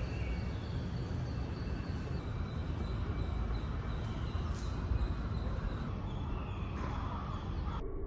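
Harsh, crow-like bird calls over a steady low outdoor rumble.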